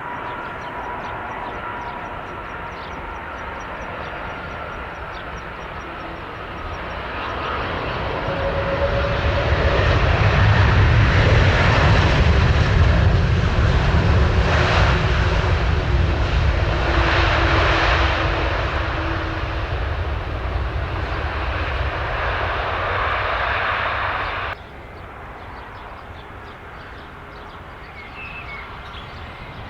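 Jet airliner's engines roaring as it passes, swelling to a loud peak and holding with a faint whine, then cutting off suddenly near the end to quieter outdoor background.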